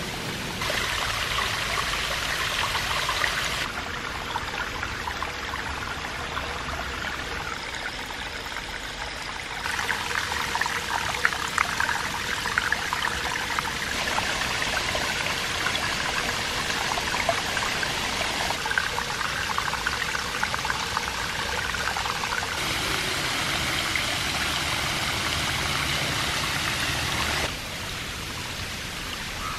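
Water of a small, low-flowing waterfall pouring and splashing over rock in a steady rush. The sound jumps abruptly in level and tone several times, as if cut between different spots along the falls.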